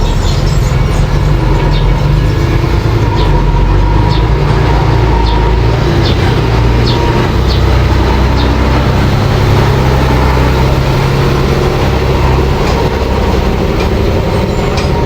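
Mini bulldozer's engine running steadily under load, with scattered light metallic clicks from the machine.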